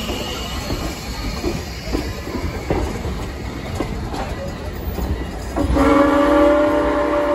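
Passenger coaches rolling past, a low rumble with the wheels clicking over rail joints. About five and a half seconds in, the locomotive's whistle starts one long, steady blast, louder than the rolling train.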